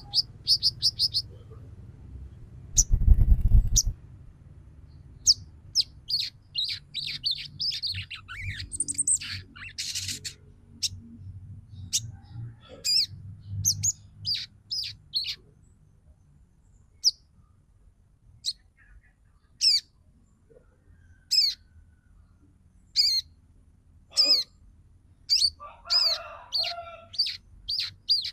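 Female sogon bird calling: short, high chirps that fall sharply in pitch, in quick clusters and then single calls a second or two apart. This is the female's call to a male. A loud low thump sounds about three seconds in.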